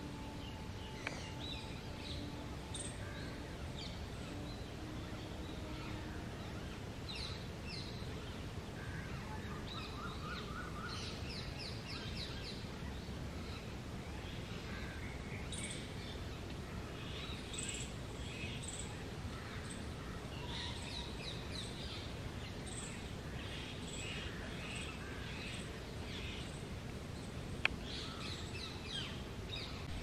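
Several small birds chirping and giving short runs of quick repeated notes over a steady low outdoor rumble. A single sharp click comes near the end.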